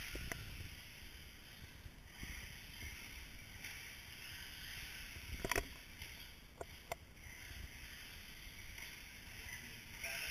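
Radio-controlled short-course trucks running on the track, a faint whir that swells and fades. A sharp knock comes about five and a half seconds in, with two lighter clicks about a second later.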